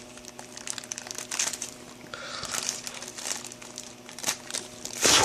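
Crinkling and crackling of a blind-box mystery mini figure's packaging being worked open by hand, in irregular handling noises with one louder crackle near the end.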